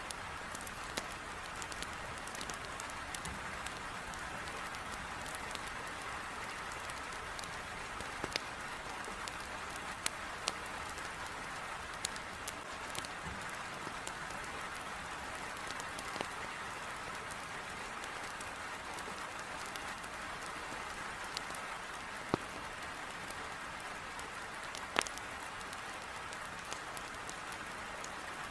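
Steady hiss of heavy rain beating on a window, with scattered sharp pops and crackles from burning firewood in a fireplace; the loudest pop comes near the end.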